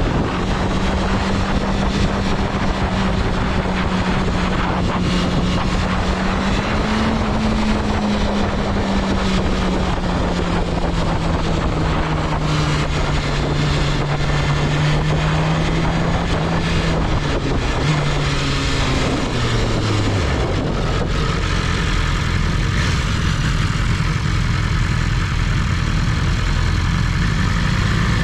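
BMW S1000RR's inline-four engine running at a steady cruise over heavy wind noise. About two-thirds of the way through, the pitch falls as the throttle is rolled off and the engine note fades, leaving the wind and road noise.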